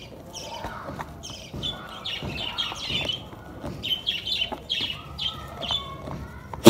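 Small birds chirping repeatedly, a quick run of short, high, falling chirps several times a second. A single sharp click, the loudest sound, comes right at the end.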